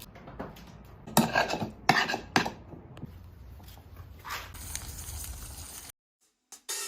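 Three sharp knocks or clatters within about a second and a half, over faint background noise, then a stretch of soft hiss that cuts off abruptly to silence near the end.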